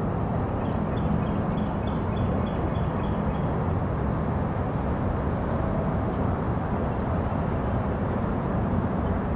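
Steady low rumble of a distant CSX freight train on a steel trestle. A bird sings a quick run of about ten short, high chirps over it in the first few seconds.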